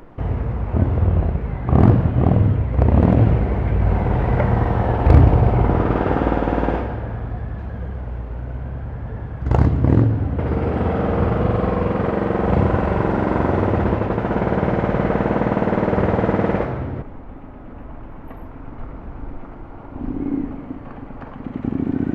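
Motorcycle engine revved in several sharp throttle blips, then held at a steady, loud run for several seconds before cutting down abruptly about three quarters of the way through.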